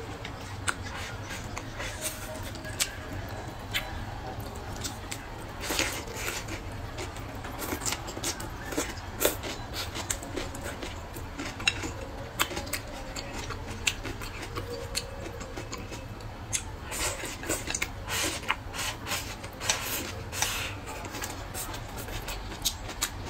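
Mukbang eating sounds: wet chewing and lip-smacking on a mouthful of food, with chopsticks clicking against a ceramic bowl. Many short sharp clicks, bunched about a quarter of the way in and again in the last third, over a low steady hum.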